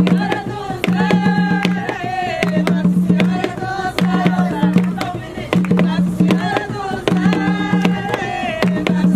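Jongo music: hand drums beaten in a steady rhythm under a singing voice, with a low drum tone recurring about every second and a quarter.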